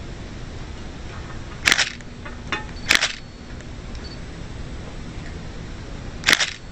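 Three short, sharp crunches of food being bitten and chewed, close to the microphone, about a second in, a second later, and near the end, over a steady background hiss.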